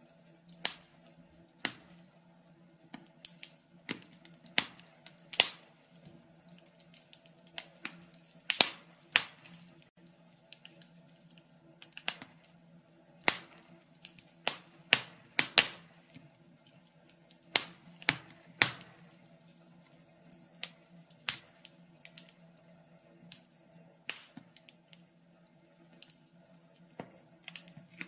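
Burning logs in a fireplace crackling, with irregular sharp pops and snaps, a few a second at the busiest, over a faint steady low hum.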